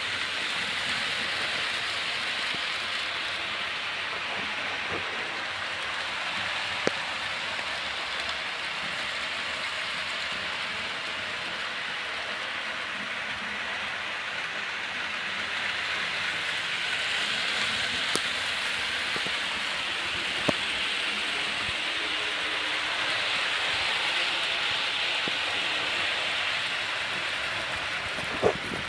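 Model train running on 00-gauge track: a steady rushing noise that grows louder about two thirds of the way through, with a few sharp clicks.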